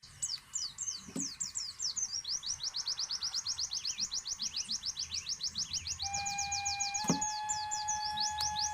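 White-eye (pleci) singing a long, fast trill of rapid high chirps, about ten a second. From about six seconds in a steady lower whistle-like tone runs beneath it, and there is a sharp knock near seven seconds.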